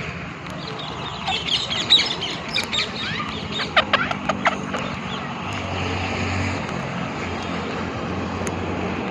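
Birds chirping, with a few sharp calls in the first half, over a steady background hiss; a low, steady motor hum comes in about halfway through.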